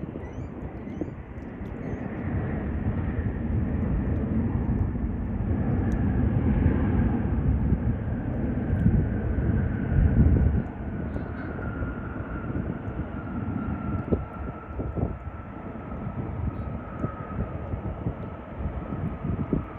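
Jet airliner passing: a low engine rumble that builds to its loudest about halfway through and then eases off, with a whine that slowly falls in pitch.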